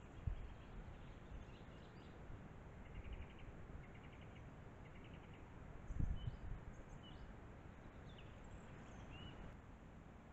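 Woodland ambience through a trail camera's built-in microphone: a steady hiss with scattered faint bird calls, short chirps and quick trills. Two brief low thumps come about a quarter second in and about six seconds in.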